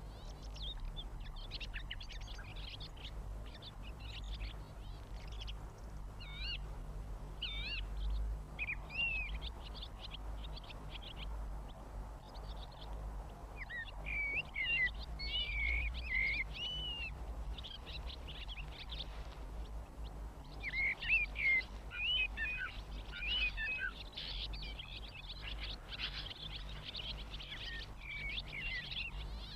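Swallows twittering, a run of many short chirps throughout, busiest in the second half, over a low steady hum.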